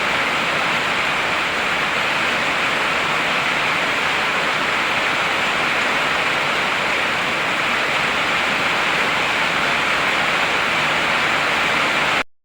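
Heavy rain falling as a steady, even hiss, which cuts off abruptly to silence just before the end.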